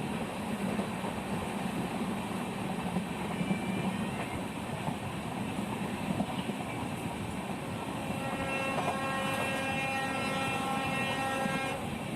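Konkan Railway train running with a steady rumble, its horn sounding one long blast of about four seconds near the end.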